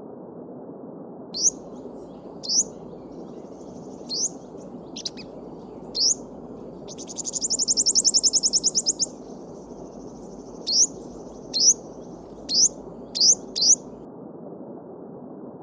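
A small songbird calling over the steady rush of a stream: short high chirps that sweep upward, with a fast high trill lasting about two seconds midway through.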